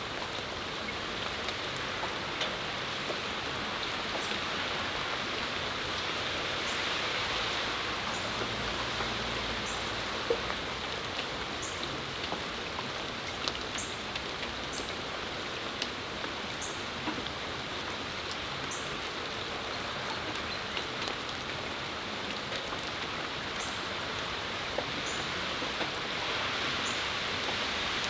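Steady rain falling and pattering on surfaces, with scattered sharp drop clicks. A faint, short high chirp repeats every second or two through much of it.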